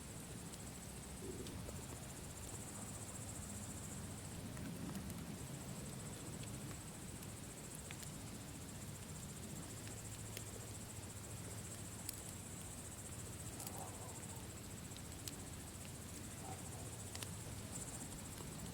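Campfire burning, with a low steady rumble and scattered sharp crackles and pops from the wood. A steady high insect chirring, like crickets, runs under it.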